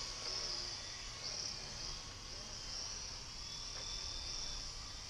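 Crickets chirping in a steady, pulsing high trill, with the faint high whine of a small RC helicopter's electric motor underneath.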